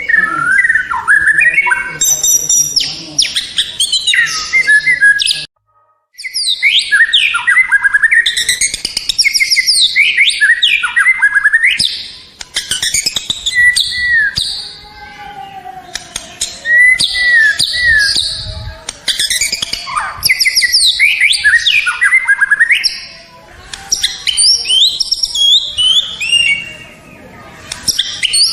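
White-rumped shama (murai batu) singing loudly and continuously: fast varied phrases of sweeping, rising and falling whistles and chatters, broken by a sudden gap of about half a second around five seconds in.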